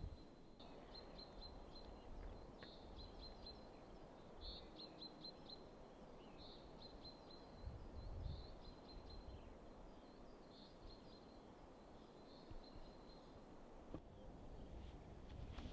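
Small birds singing faintly in short high chirping phrases, repeated every second or two, over a quiet countryside background with a few soft low rumbles.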